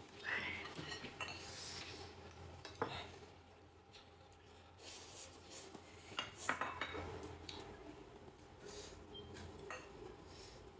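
Eating utensils knocking and scraping against dishes in scattered light clinks, with a sharper knock about three seconds in and a quick cluster of clinks about six seconds in.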